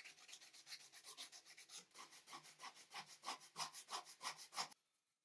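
Hand sanding with rapid back-and-forth strokes, about four a second, that stop abruptly near the end.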